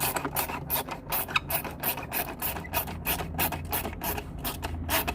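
Hand ratchet clicking rapidly and steadily, about five clicks a second, as fasteners on a motorcycle headlight assembly are loosened.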